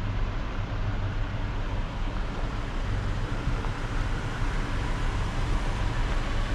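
A vehicle on the move: steady engine and road rumble with a broad noise haze over it.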